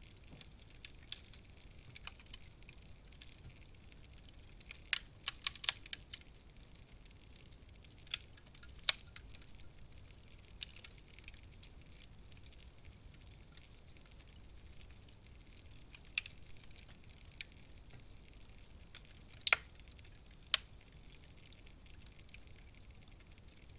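Wood fire in a fireplace crackling: scattered sharp pops and snaps, with a quick cluster of them about five seconds in, over a soft low hiss of the burning wood.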